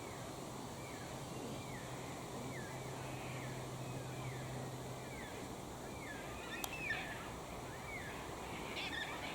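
A bird calling over and over with short wavering whistles, a little more than one a second. A steady low hum sits under it for the first five seconds, and there are a couple of sharp clicks about seven seconds in.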